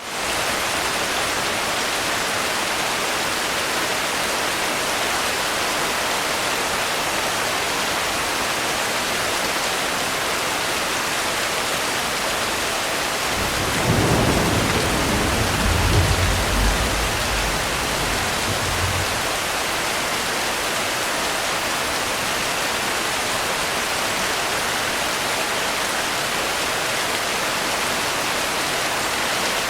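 Steady heavy rain hiss throughout, with one low roll of thunder building about halfway through, rumbling for several seconds and fading away.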